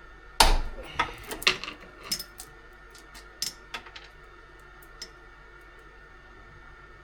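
Steel chainsaw chain clattering and clinking as it is handled: a loud rattle about half a second in, then a run of sharp metal clinks that thin out and stop by about five seconds in.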